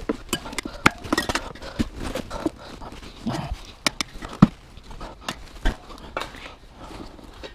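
Irregular clicks and knocks of hand tools and metal parts, several a second with a few louder knocks, as the rear tyre of a Honda Super Cub is worked off its wheel.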